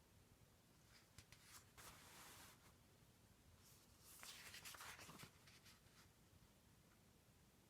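Two faint papery rustles, about two and four seconds in: pages of a picture book being handled and turned.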